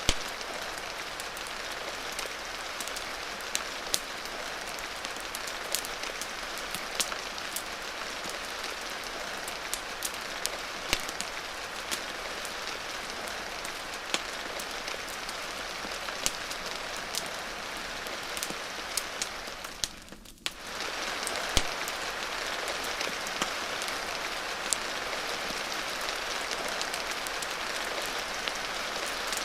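Steady rain, a dense hiss with many sharp ticks and pops scattered through it. The sound dips away briefly about two-thirds of the way through, then comes back.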